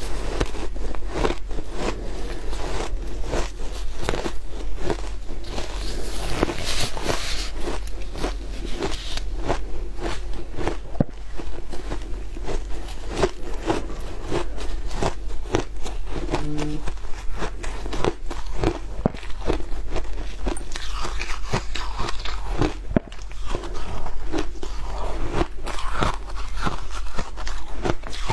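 Shaved ice being bitten and chewed close to the microphone: a continuous run of crisp, rapid crunches.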